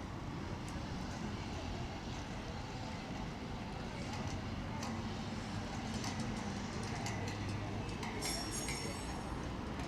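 Outdoor city street ambience: a steady rumble of traffic with murmuring voices, scattered clicks and taps, and a brief high squeak about eight seconds in.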